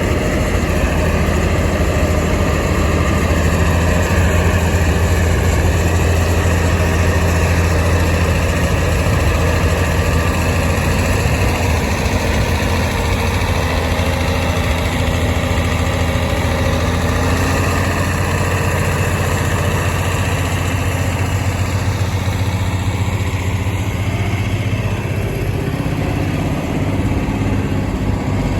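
Tractor diesel engine running steadily at a low, even speed, with a little change in its note near the end.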